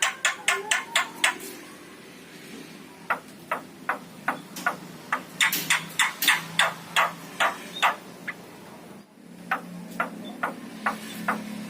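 Javan myna calling: a fast, uneven run of short, sharp clicking notes, pausing briefly about a second and a half in before resuming.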